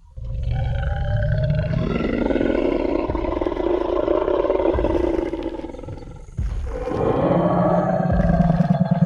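Tyrannosaurus rex roar sound effect: a long roar lasting about six seconds, then a second roar starting about six and a half seconds in and still going at the end.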